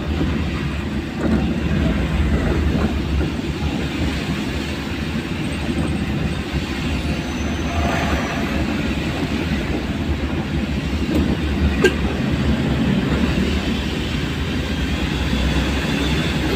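Steady low rumble of a vehicle travelling along a road, with a single sharp click about twelve seconds in.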